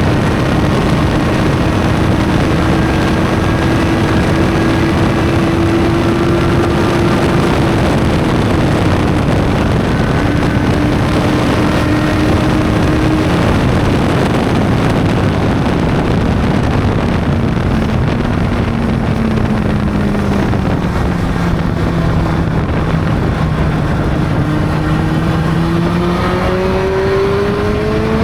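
Honda CB600's inline-four engine running under way over steady wind rush. The engine note holds steady at first, drops in pitch past the middle as the bike slows, then climbs again near the end as it accelerates.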